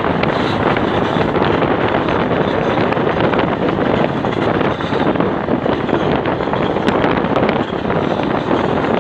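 Steady rush of wind buffeting the microphone at an open window of a moving passenger train, over the running noise of the carriage on the rails, with a few faint clicks.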